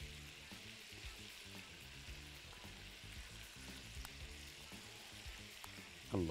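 Chicken pieces frying in a pan of butter and ghee, a faint steady sizzle, as tomato sauce is spooned over them.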